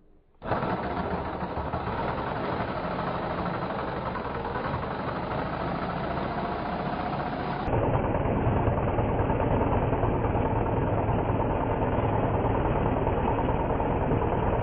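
Steady engine noise, in two clips: the second, from about eight seconds in, heavier in the low end and a little louder.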